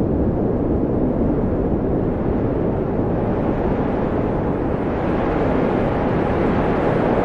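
Steady wind blowing, a deep, even rushing that gusts a little higher now and then.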